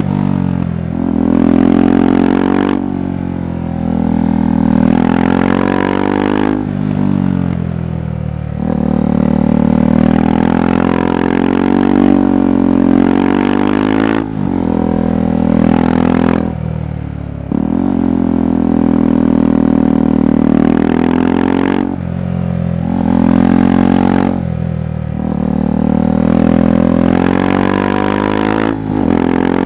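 KTM 390 Adventure's single-cylinder engine and exhaust under way. The pitch climbs under throttle, then drops off and climbs again every few seconds as the throttle is opened and closed.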